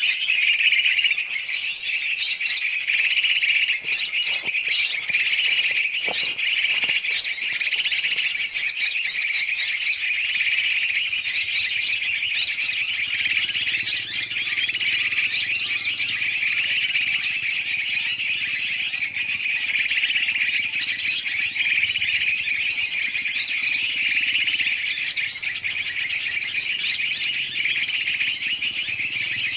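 Bird-lure recording: a dense, noisy mix of many birds calling and chirping over one another without a break, made to draw in bulbuls and other birds.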